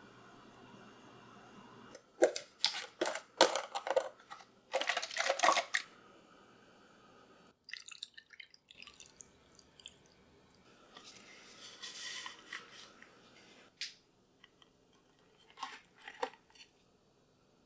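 Light clicks and clatters of things being handled in a kitchen, a quick cluster in the first half and a few more near the end, with a brief soft hiss in between.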